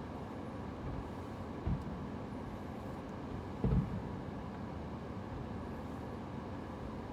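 Fireworks going off at a distance: two low, dull booms, the second and louder one a couple of seconds after the first, over a steady background rumble and hiss.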